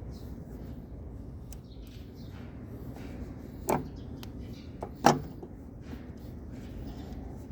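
Two sharp knocks about a second and a half apart and a few lighter clicks, over a steady low rumble: hand-tool work on a Kubota V2203 diesel engine's fuel pump.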